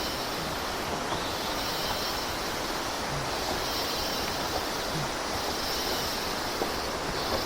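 Steady rush of falling water from a waterfall or stream, an even noise that holds level throughout.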